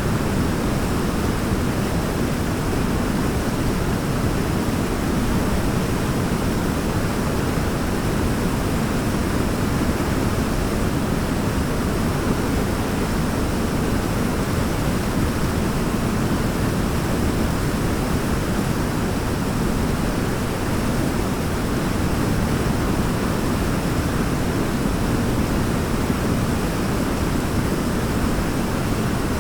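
Forest waterfall rushing in a steady, unbroken roar of falling water, deep and even, with no change in level.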